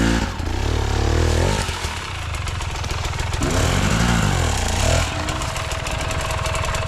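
Dirt bike engine revved up and back down twice, then settling into a steady idle for the last couple of seconds.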